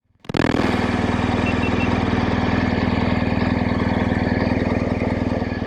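Vehicle engine running steadily at an even speed, with a regular low pulsing beat.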